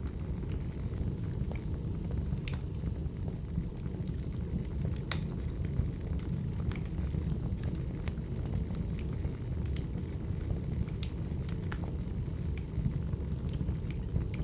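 Firewood burning: a steady low rumble of the fire with sharp crackles and pops of the wood scattered at irregular moments.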